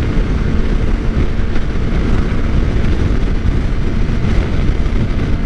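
A 2013 Suzuki GSX-R600's inline-four engine running at steady cruising speed, mixed with a steady rush of wind on the rider's microphone.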